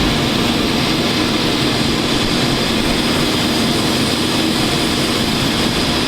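CRJ regional jet's turbofan engines idling at the gate, a steady even whine and rumble.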